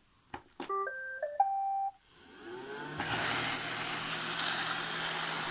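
iRobot Roomba 696 robot vacuum playing its short start-up tune of electronic beeps. Its vacuum motor and brushes then spin up with a rising whine and run steadily.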